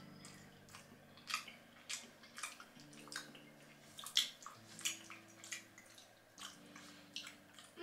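A person chewing a mouthful of pasta, with irregular short wet clicks and smacks.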